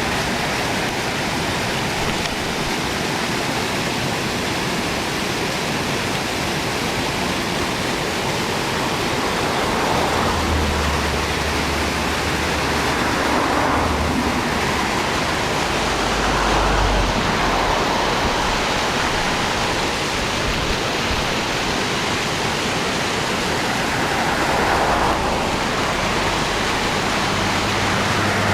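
Steady rush of water pouring over a small waterfall, with a few soft low rumbles coming and going.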